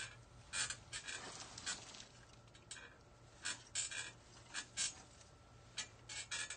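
Artificial evergreen picks rustling and scraping as they are worked into a wreath, in a string of short, irregular rasps.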